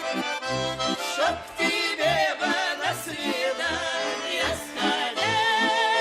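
Accordion playing a folk tune: a melody over a steady beat of bass notes and chords. About five seconds in it settles onto a long held chord.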